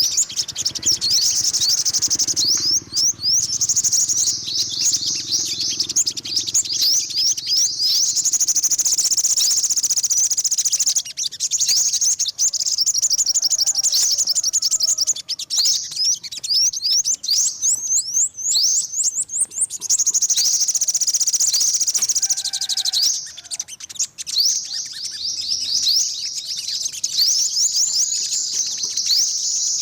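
Yellow-bellied sunbird singing: a rapid, high-pitched twittering of quick sliding chirps, nearly continuous, with a few short breaks.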